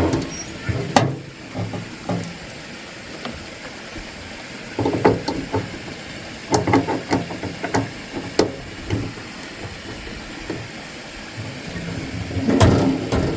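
Irregular knocks and clatter of objects being handled, coming in clusters with pauses between them and loudest just before the end.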